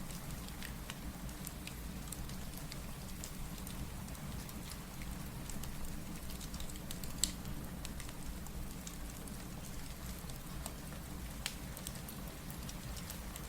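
Steady rain falling, mixed with a fireplace crackling in scattered sharp pops, one louder pop about seven seconds in.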